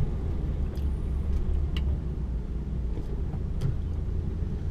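Diesel engine of a Mercedes 1824 rigid truck running steadily at low revs, heard from inside the cab, with a few faint clicks.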